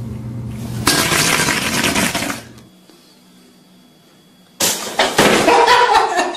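A sudden loud clatter and crash a little past halfway through: an ironing board toppling over as a startled cat jumps off it. In the first half there is a separate loud stretch of noise.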